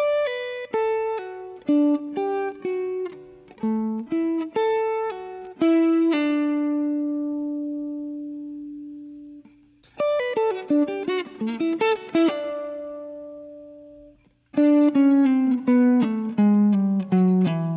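Guitar playing a single-note jazz line slowly, in three phrases. The first ends on a long note that rings out, the second is a quick flurry that dies away, and the last is a fast falling run of notes.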